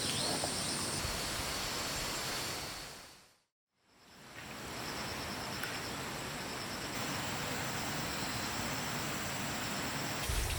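Steady outdoor noise, like rushing water or wind, fading out to silence about three seconds in and fading back in a moment later.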